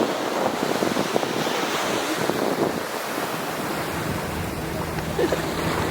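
Ocean waves washing onto the beach, a steady rush of surf, with wind buffeting the microphone.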